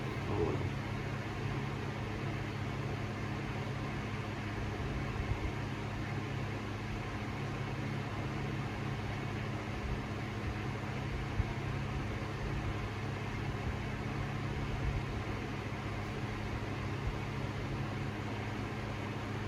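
52-inch Harbor Breeze Cheshire ceiling fan running steadily: a low motor hum under the even rush of air from the blades.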